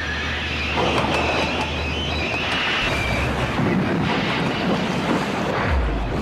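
Train running along the track, with a high wheel squeal for a second or two near the start.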